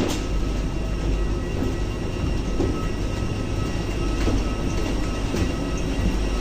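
Steady low rumble of engine and airflow noise inside an airliner cabin in flight, with a few faint clicks.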